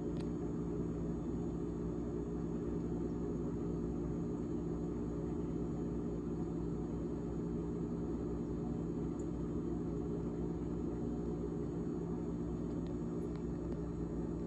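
GE GTH18XCTZRBB refrigerator fan running with a steady hum made of several held tones over a low rumble.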